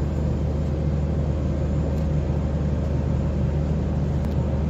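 Steady low mechanical hum and rumble of a halted train, holding an even level throughout.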